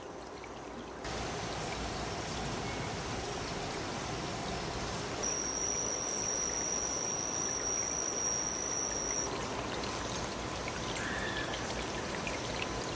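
Steady running or trickling water, rising in level about a second in, with a thin high steady tone over it for about four seconds in the middle.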